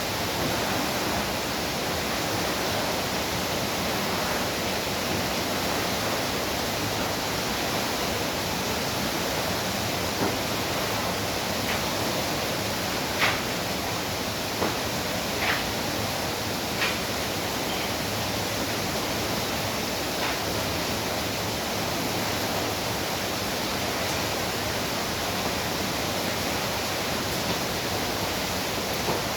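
Steady, dense rainfall hissing without a break, with a few sharper taps of drops scattered through the middle.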